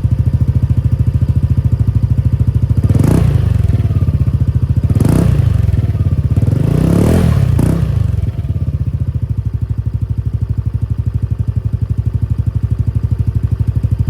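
Yamaha Cygnus Gryphus 125 cc scooter's single-cylinder four-stroke engine idling with a steady exhaust pulse. The throttle is blipped three times a couple of seconds apart, the third rev longer, and the engine then settles back to idle.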